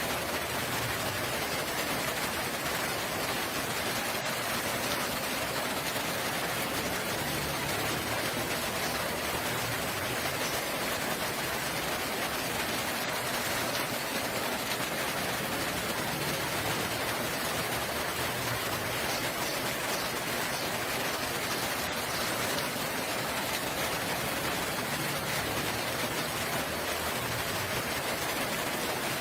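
Steady rain falling, an even unbroken hiss of raindrops, with a faint low rumble coming and going underneath.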